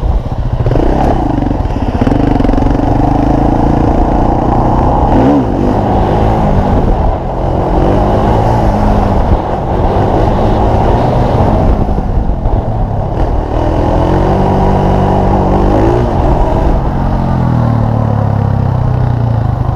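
Small off-road vehicle engine running under load, revving up and easing off several times, with its pitch rising and falling.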